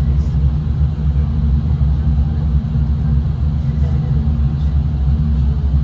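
Steady low rumble of a V/Line train running along the line, heard inside the carriage.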